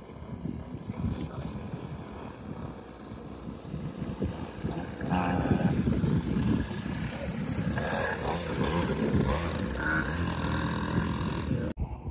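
Dirt bike engine running with wind on the microphone, growing louder about five seconds in, then cutting off abruptly near the end.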